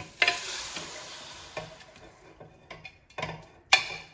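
Boiled chicken and its cooking water poured into a hot pan of fried masala. It sizzles sharply at first and the hiss fades over about two seconds. Then comes a few light knocks of a spoon against the pan.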